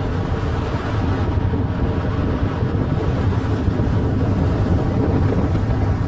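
Strong storm wind blasting the microphone: a steady, loud, low rushing noise.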